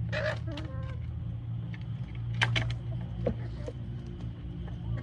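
A steady low hum, with a few short calls from chickens near the start and a sharp click about two and a half seconds in.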